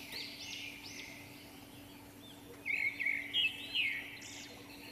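Small birds chirping in quick runs of short arched notes, faint at first and louder from a little past halfway, over a steady faint hiss.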